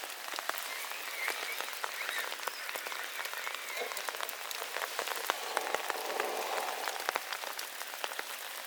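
Steady rain falling, with many sharp raindrop hits close by.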